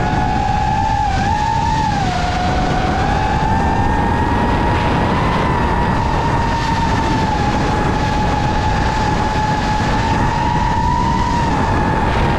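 FPV drone's brushless motors whining in flight, the pitch wavering up and down as the throttle changes, over a steady rush of wind and propeller wash.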